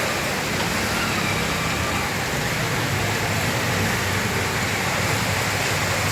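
Steady rushing noise of rain mixed with road traffic.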